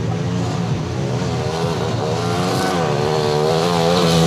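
Motorcycle engines running, with one revving up and down over a steady low idle, getting louder near the end.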